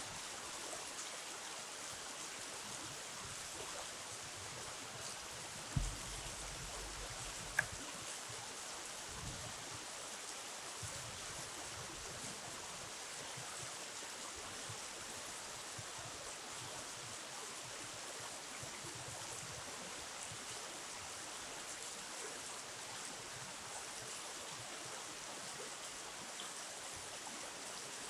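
Steady rush of flowing river water. A soft low thump comes about six seconds in, and a short sharp click follows about a second and a half later.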